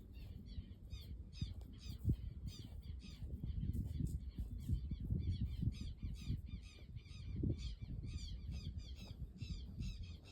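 Many birds calling together in a dense chorus of short, quick notes, overlapping and continuous, with a low rumble underneath.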